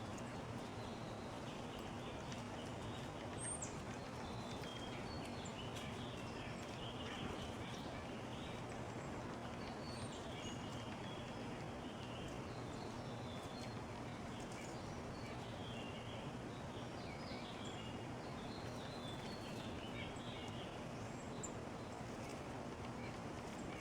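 Small backyard songbirds giving short, scattered chirps and call notes, over a steady background of outdoor noise with a faint low hum.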